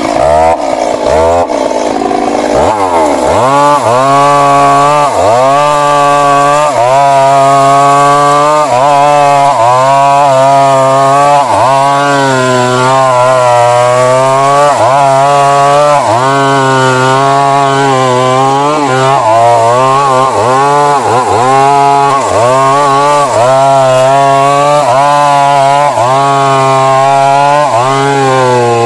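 Stihl MS 382 two-stroke chainsaw cutting through a large tree trunk. It revs up to full throttle about three seconds in, then holds, its pitch sagging briefly again and again as the chain bites under load.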